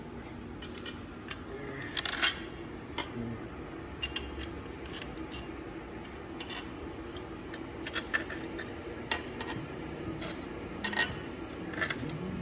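Scattered light metallic clinks and taps, a dozen or so spread irregularly, from bolts and hand tools knocking against metal engine parts while the water pump and its metal coolant hose are fitted.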